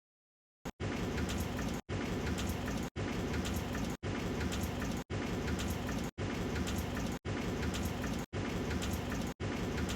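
Water spray pelting the car body, heard from inside the cabin in an automatic car wash: a dense, rain-like noise. It starts suddenly just under a second in and comes in even chunks about a second long, separated by brief dropouts.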